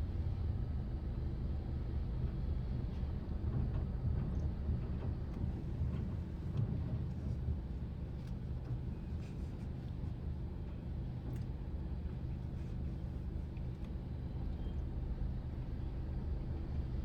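Car engine running steadily with a low hum.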